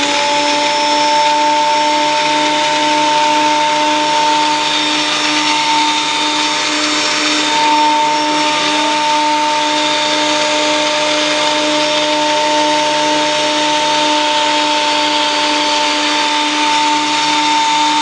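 Ryobi 10-inch surface planer running at full speed: a steady electric-motor and cutter-head whine with a hiss above it.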